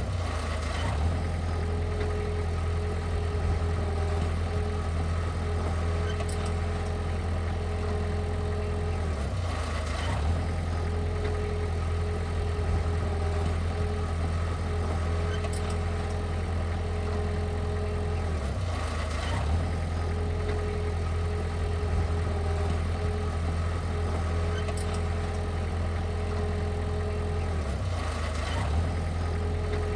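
Heavy machine's diesel engine running steadily at a low hum, with a brief dip and click about every nine seconds.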